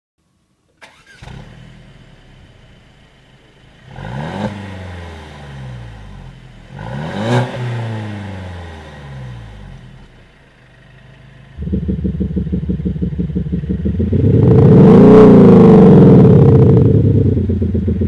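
Mercedes-Benz C-Class Cabriolet fitted with a Maxhaust Soundbooster, a single speaker playing a Maserati-style exhaust note over the engine. It starts about a second in and is revved twice. About two-thirds of the way through it turns loud and steadily pulsing, with one more rev near the end.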